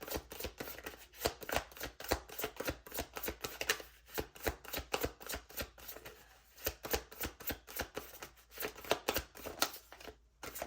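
Tarot cards being shuffled by hand: a quick, uneven run of soft card clicks and slaps, several a second, with brief pauses.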